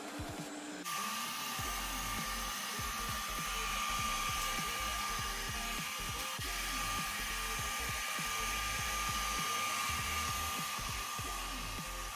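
Proscenic 850T robot vacuum cleaner running on its lowest (eco) suction setting: a steady motor whir with a thin high whine, which changes abruptly about a second in and then holds steady.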